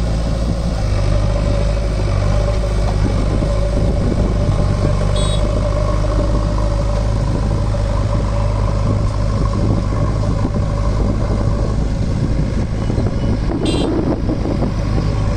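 Diesel engine of a JCB backhoe loader running steadily, with a deep, even drone.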